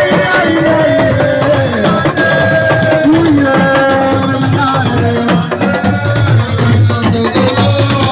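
Live assiko band music: dense drumming and percussion under a gliding melodic line.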